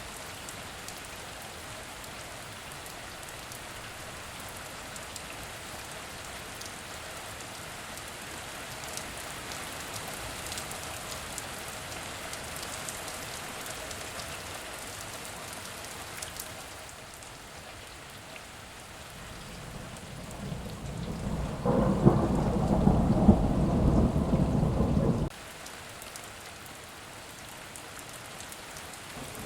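Heavy rain falling steadily. About two-thirds of the way through, a low rumble of thunder builds up, becomes the loudest thing in the clip and then cuts off suddenly. Another rumble begins right at the end.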